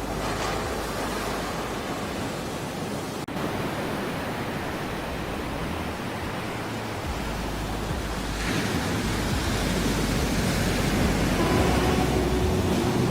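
Ocean surf as a steady rush of waves, swelling louder about eight seconds in. A brief dropout cuts it about three seconds in, and faint held tones enter near the end.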